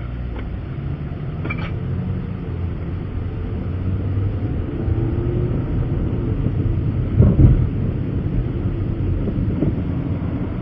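Vehicle running, heard from inside the cab: a steady low rumble, with a short louder bump about seven seconds in.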